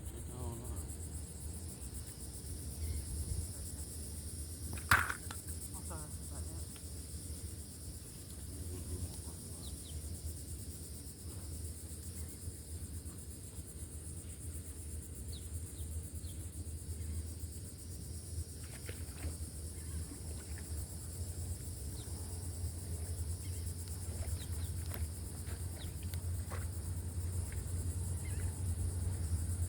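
Outdoor ambience: a steady high-pitched insect buzz over a low rumble, with one sharp click about five seconds in.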